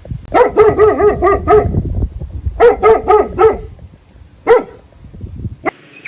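Dog barking in quick high-pitched yaps: a rapid run of about six a second, a second shorter run, then a single bark.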